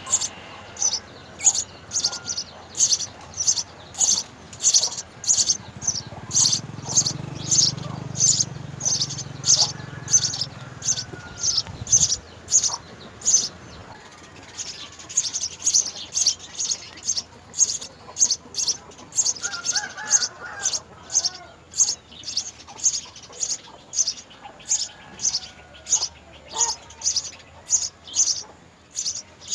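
House sparrow chirping: short high chirps repeated steadily about twice a second.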